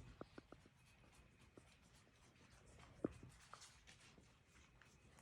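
Near silence with faint scattered clicks and light scratching, plausibly small puppies' claws moving on the floor and potty pad: a quick run of ticks at the start and one sharper click about three seconds in.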